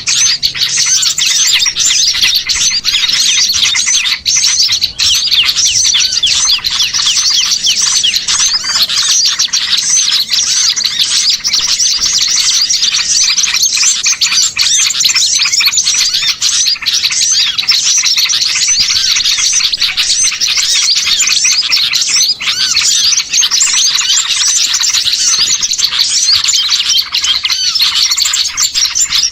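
Dense, loud chorus of many small songbirds chirping and twittering nonstop, a bird-lure (pikat) recording meant to draw wild small birds in.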